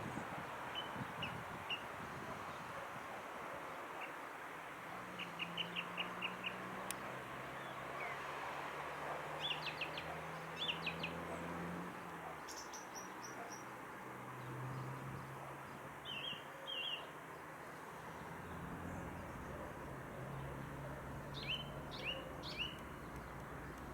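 Small birds chirping in short quick series every few seconds over a steady outdoor hiss, with a low drone coming and going underneath.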